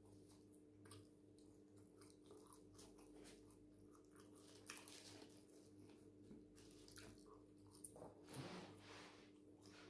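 Faint chewing and mouth sounds of eating chicken and fries, with scattered small clicks and a slightly louder patch near the end, over a steady low hum.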